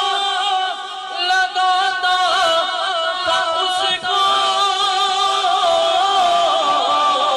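Male voice singing a naat in long held, ornamented notes that waver and bend in pitch, with short breaks about a second in and about four seconds in.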